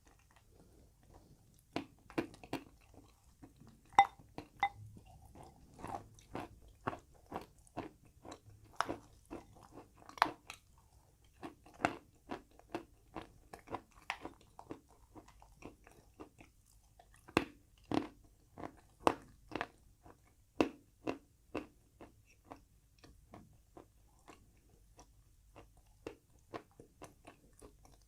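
Close-up crunching and chewing of chalk eaten with a paste: irregular sharp crunches about once or twice a second, with a few louder bites about four seconds in and again around eighteen to twenty-one seconds.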